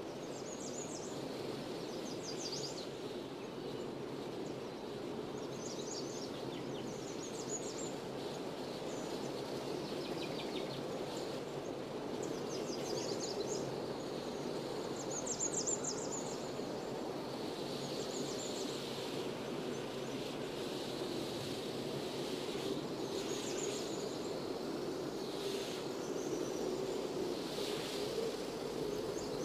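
Outdoor countryside ambience: small birds chirping in short bursts every few seconds over a steady low background rush.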